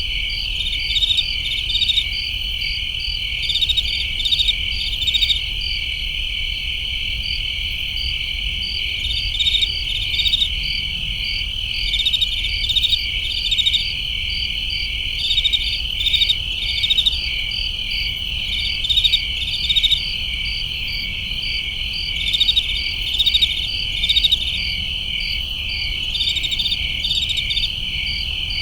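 Crickets chirping, a steady high trill with louder rhythmic chirps over it in short groups every second or two, over a low rumble.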